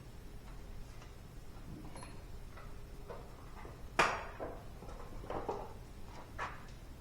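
Hand tools clicking and clanking against metal engine parts, with scattered light ticks and one sharp metallic clank about four seconds in, followed by a few more knocks.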